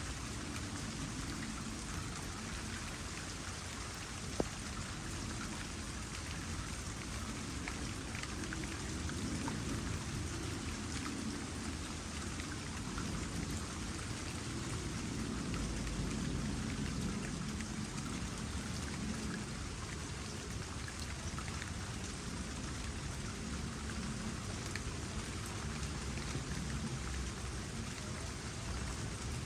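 Steady rain pattering on a small pond, with trickling water running underneath. There is one sharp tick about four seconds in.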